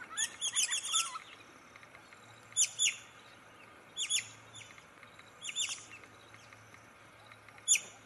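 A bird chirping: a quick run of sharp, high chirps near the start, then short groups of one to three chirps every second or two.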